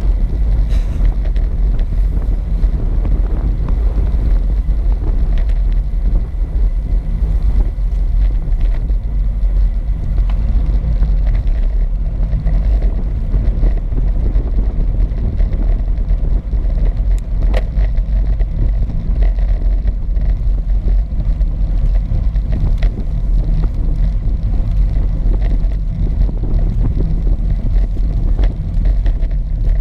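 Steady wind rumble on the microphone of a camera riding along on a moving bicycle, a constant low buffeting with a few faint clicks.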